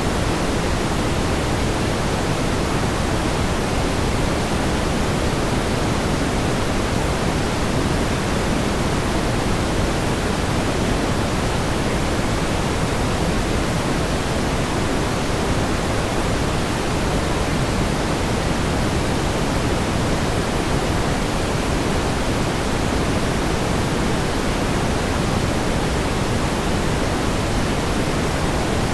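Steady pink noise: an even, unchanging hiss with more weight in the low end, like a soft rushing.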